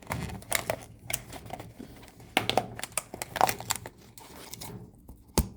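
Plastic container crinkling, with irregular rustles and clicks as it is handled, and a sharp click near the end.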